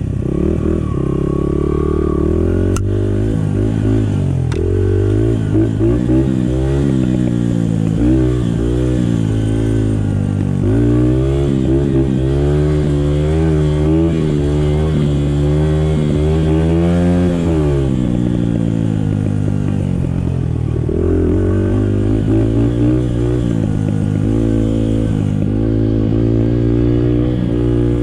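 Small Honda 50cc dirt bike engine being ridden, its note rising and falling with the throttle. It climbs and holds high for several seconds in the middle, drops away to a low run, then picks up again. A couple of light clicks come in the first few seconds.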